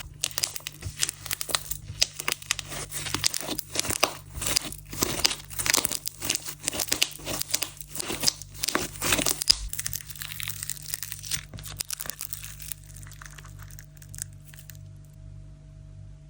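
Sand-texture slime being squeezed and pressed by hand: a dense run of crackling and popping that thins out about ten seconds in and dies away a few seconds later. A low steady hum lies underneath.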